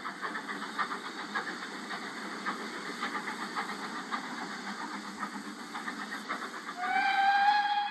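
Steam locomotive hissing steam with irregular crackling. About seven seconds in, its steam whistle sounds: one note that slides up slightly, then holds.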